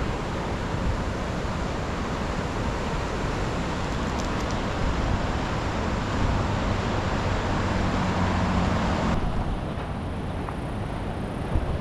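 Steady road noise of a vehicle passing on a road, its low hum swelling before the sound drops off abruptly about nine seconds in.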